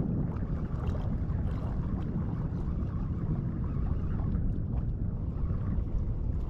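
Wind buffeting the microphone in a steady low rumble, over the wash of surf on the beach.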